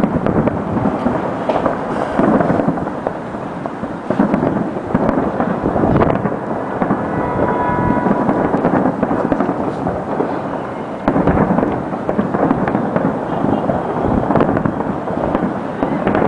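Fireworks and firecrackers going off in a dense, unbroken barrage of bangs and crackling from many directions. A brief higher steady tone sounds about halfway through.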